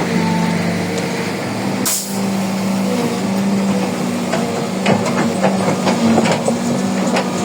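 Heavy diesel construction machinery running steadily, with a short sharp hiss of air about two seconds in. A run of knocks and clanks follows in the second half.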